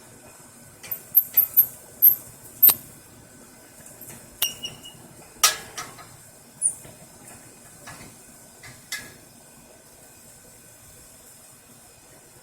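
Metal tools and hardware clinking and tapping during work on an air-conditioner condenser unit: a quick run of sharp, ringing clinks over the first few seconds, then scattered taps that stop about nine seconds in.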